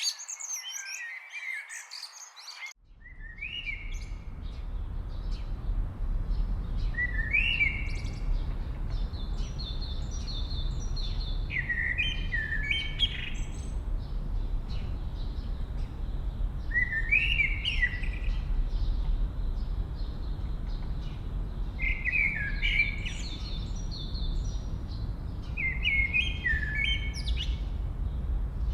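Songbirds singing: dense, fast chirping for the first few seconds, then an abrupt change to a different recording in which a bird repeats a short song phrase every few seconds, with higher faint notes between, over a steady low rumble.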